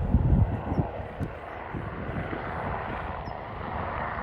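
Helicopter flying low overhead: a steady rush of rotor and engine noise, with a few low thumps in the first half second.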